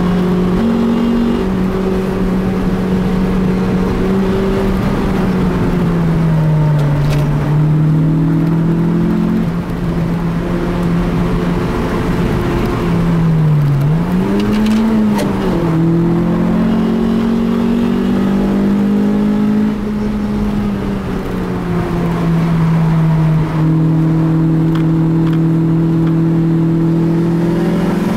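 Car engine under load heard from inside the cabin during a fast track lap, holding fairly steady revs. Its pitch drops a quarter of the way in, then dips and briefly rises and falls again about halfway through.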